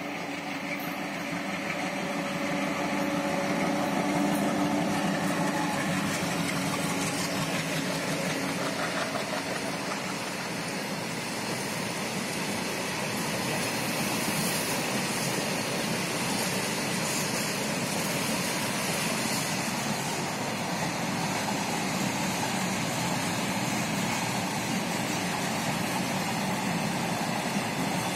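Running noise of a train heard from on board a passenger train: a steady rumble and hiss that swells over the first few seconds and then holds level, with faint steady tones dying away in the first ten seconds.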